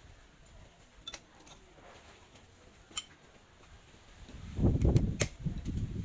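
A few sharp metal clicks, then from about four and a half seconds in louder knocking and handling noise with more clicks, from parts of a hand pallet truck's hydraulic pump being worked on.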